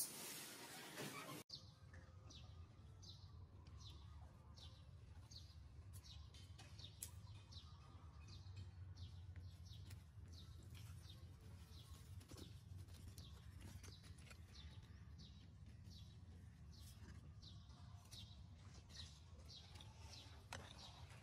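A loud, harsh sound cuts off abruptly about a second and a half in, then faint outdoor ambience: small birds chirping many times, short high falling notes over a low steady rumble.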